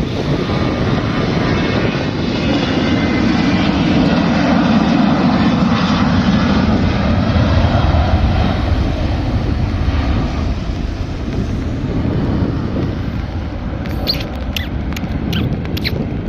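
Airliner's jet engines at takeoff power, a loud roar with a high fan whine that swells to a peak about halfway through and then fades as the aircraft departs.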